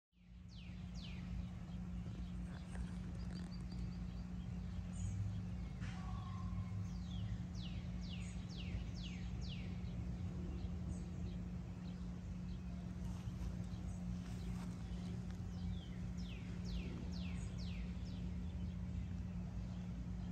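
Outdoor birdsong: a bird sings runs of four or five quick, high, downward-slurred whistles, repeated several times, over a steady low hum.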